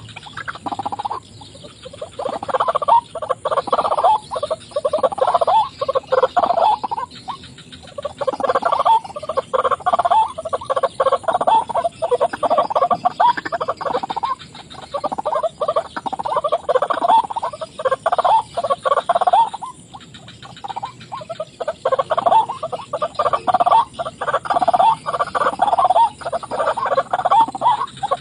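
White-breasted waterhen calling: rapid, repeated harsh 'wak-wak' notes in long bouts broken by a few short pauses.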